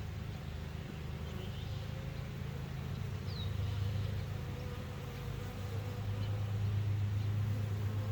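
Honey bees buzzing in a steady hum around an open hive, with a brief high chirp about three seconds in.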